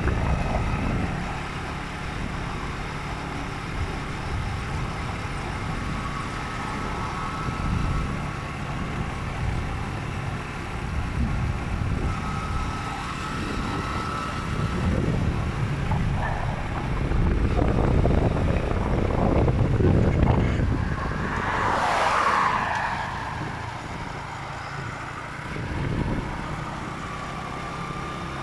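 Motorcycle riding on the road: a steady engine and road rumble with traffic around it, and a brief louder sound about three-quarters of the way through.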